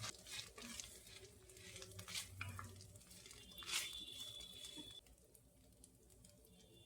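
Faint kitchen handling sounds: small knocks and clicks of utensils and dishes, with one sharp clink just before the fourth second that rings briefly with a high tone, then quieter.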